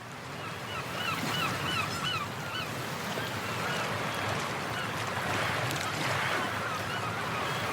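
Sea ambience fading in: a steady wash of surf with birds calling, a quick series of short rise-and-fall cries over the first few seconds and fainter calls later.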